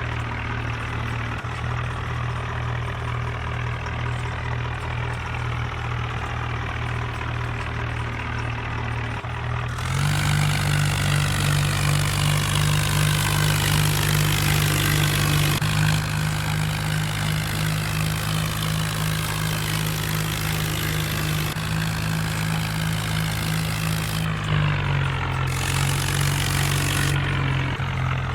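Swaraj 4x4 tractor's diesel engine running steadily. Its low, even hum steps up in pitch and loudness about a third of the way in, then shifts abruptly a few more times.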